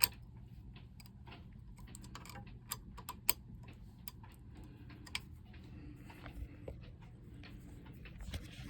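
Light, irregular metallic clicks and taps of hand work on a bolt: a bolt being threaded and turned by hand, with a few louder clicks near the start, about three seconds in and about five seconds in.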